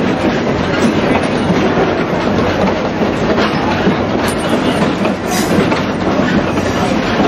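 Heritage railroad passenger car rolling along: steady rumble and rattle of steel wheels on the rails, heard from inside the open-sided car, with a couple of brief sharper clicks about four and five seconds in.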